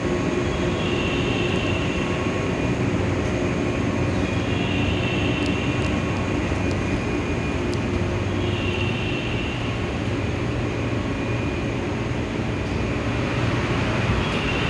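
JNR Class DE10 diesel-hydraulic locomotive running steadily with a freight train, a continuous low diesel engine hum. A higher whine comes and goes about every four seconds.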